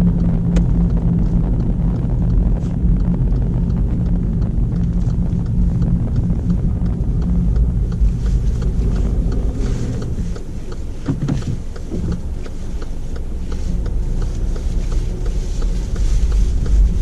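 Petrol car's engine and road noise heard from inside the cabin while driving: a steady low rumble that eases off for a couple of seconds about ten seconds in.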